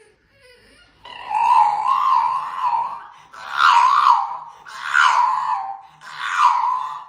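A dog making a series of long, wavering, high-pitched cries: one drawn-out call followed by about four shorter ones.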